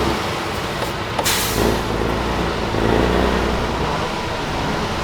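Heavy truck's diesel engine running, with a short sharp hiss of compressed air about a second in, like an air brake releasing.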